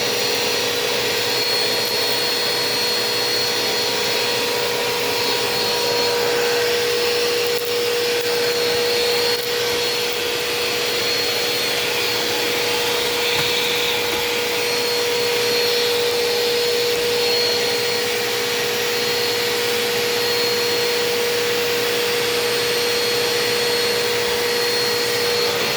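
Eureka Power Speed upright vacuum running steadily with its hose and wand in use on a kitchen counter: an even rush of air with a steady tone through it.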